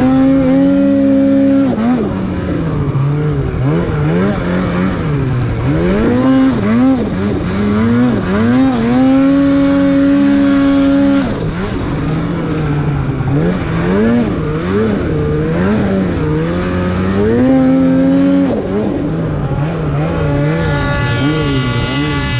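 Turbocharged Polaris Patriot Boost two-stroke snowmobile engine with a BoonDocker Sidekick muffler, revving up and down repeatedly under throttle and holding high revs for a second or two at a time.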